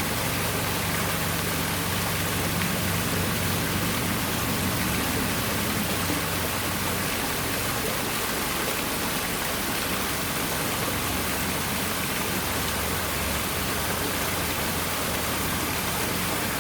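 Water pouring steadily over an artificial rock waterfall, a constant even rush and splash.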